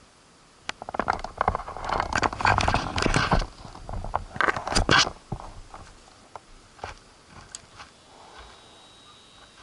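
Rustling and scraping handling noises with many sharp clicks, dense for about four seconds and then thinning to a few scattered clicks.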